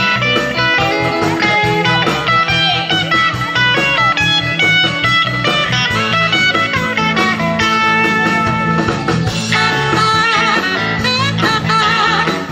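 Live country-rock band playing an instrumental break, a lead guitar playing bending, wavering notes over bass and a steady drum beat.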